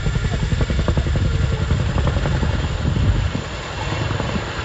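Chinook helicopter's tandem rotors chopping with a rapid, even blade slap over a deep engine rumble. About three seconds in this gives way to a quieter, steadier low hum.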